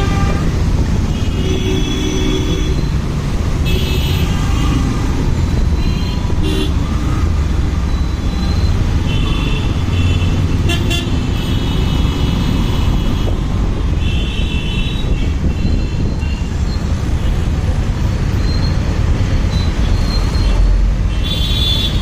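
Street traffic heard from a moving motorbike: a steady low rumble, with vehicle horns honking over and over in short beeps and a few longer blasts.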